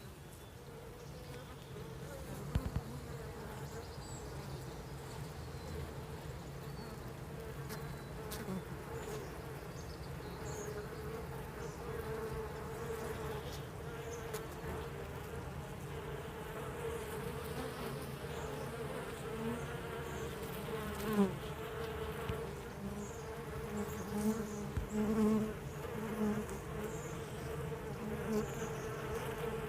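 Honeybee colony in a hive humming: a steady, even drone of many bees. From about twenty seconds in, single bees buzz louder and lower close by, and there are a few sharp knocks.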